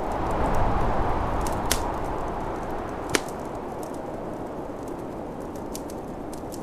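Snowstorm wind blowing steadily, swelling in a gust in the first two seconds and then easing, over a fireplace crackling with scattered small pops. A sharp log pop about three seconds in is the loudest sound.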